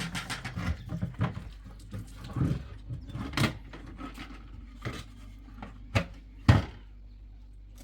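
Irregular knocks, clatters and thumps of things being handled and set down, busiest in the first second, with two sharper thumps near the end, the last one the loudest.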